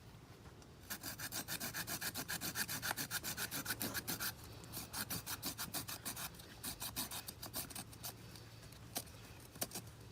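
Wood being sawn by hand in quick back-and-forth scraping strokes, about four or five a second, turning uneven about four seconds in and stopping near the end.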